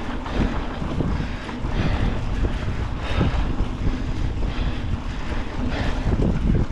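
Wind buffeting a GoPro's microphone: a dense, wavering rush of noise, heaviest in the low end.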